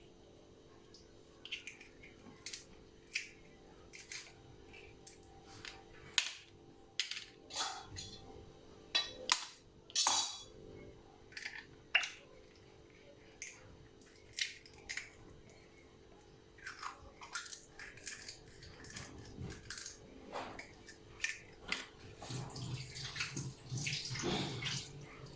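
Two eggs being cracked on a bowl and emptied into it: a scatter of short sharp taps and clicks from shell and bowl, with a louder, rougher stretch near the end.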